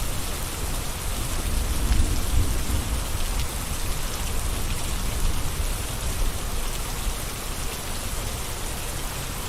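Steady gentle rain falling, an even hiss of drops with a low rumble underneath.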